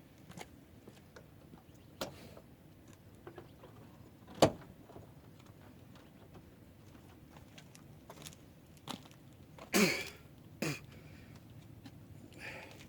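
A few isolated sharp knocks and clanks of metal tools and parts, the loudest about four and a half seconds in and a short clatter near ten seconds, with quiet in between.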